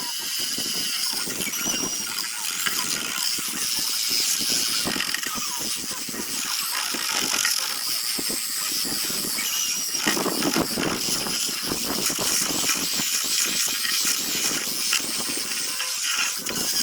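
Power sanding tool working on zelkova root wood: a continuous, high-pitched grinding that varies in strength as the tool is pressed and moved over the wood.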